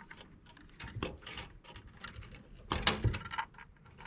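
Scattered metal clicks and clinks, with a louder clatter of metal just before three seconds in, as copper line is cut from a scrapped air-conditioning unit.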